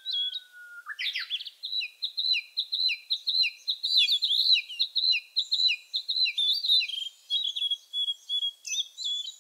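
Birds chirping: a rapid, steady string of short high chirps, several a second, over otherwise clean silence.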